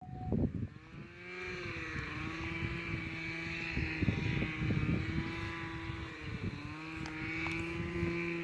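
Small engine running at a steady pitch, sagging briefly twice, with gusty low rumble over the microphone.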